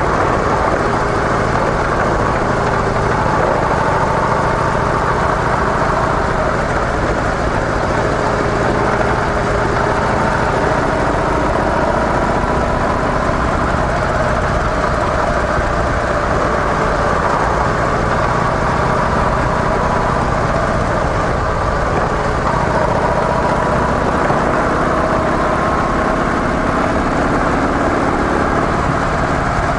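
Harley-Davidson CVO Softail V-twin engine running steadily through its stock mufflers, with slowly drifting pitch.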